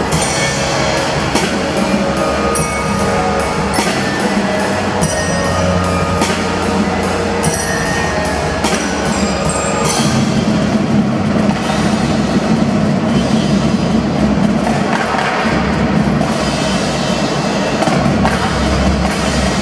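A drum band playing: marching drums strike over sustained melodic tones. About halfway through the sharp high strokes thin out and fuller held notes take over.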